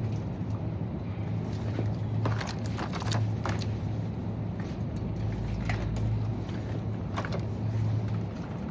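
Heeled boots clicking on a hard floor with each step, sharp clicks spaced irregularly, over a steady low hum and rolling noise.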